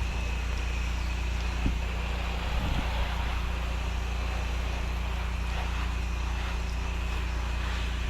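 Small engine of a pressure-washing rig running steadily, with a steady hiss of spray from a low-pressure wand.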